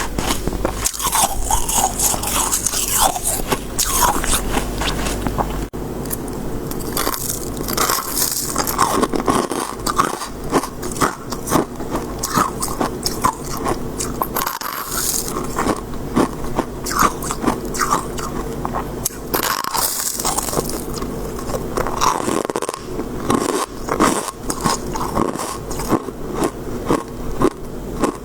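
Close-miked biting and chewing of shaved freezer frost: a continuous run of crisp, irregular crunches.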